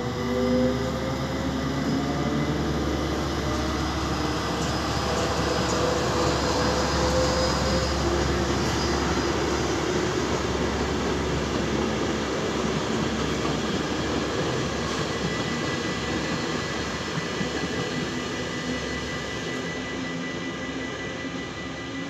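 Diesel-hauled freight train of tank wagons passing over a level crossing. A rising engine note comes from the locomotive in the first second or so, then a long steady rumble and clatter of wagon wheels on the rails, easing off near the end as the train clears the crossing.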